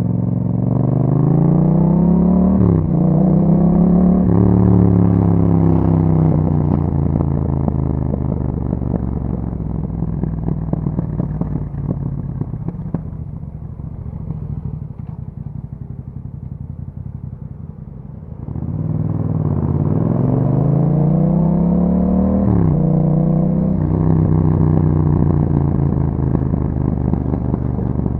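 2021 Yamaha MT-07's parallel-twin through an Akrapovic exhaust, revving up with a quick upshift a few seconds in, then rolling off with a crackle as the revs fall. The revs sit low for a few seconds, then it accelerates again with another upshift and holds steady revs near the end.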